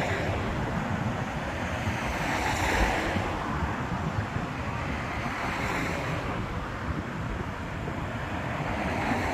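Wind buffeting the microphone over a steady wash of sea noise, swelling twice like waves breaking on the shore.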